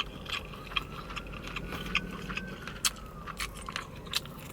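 Close-miked chewing of a mouthful of chicken biryani with yogurt: irregular wet mouth clicks and smacks.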